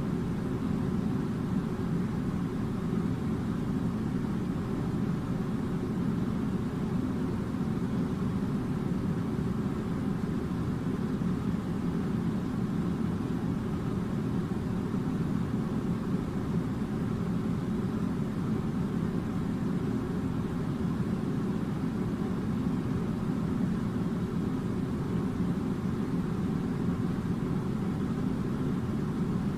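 Air conditioner running with a steady low drone, unchanging throughout.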